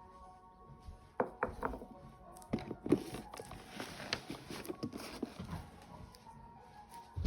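A series of irregular knocks and taps, from about a second in until near the end, over faint steady background tones.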